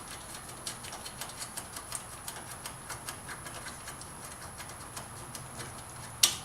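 Ratchet wrench clicking in quick, light ticks, about five a second, as a 10 mm bolt is backed out, with one sharper click near the end.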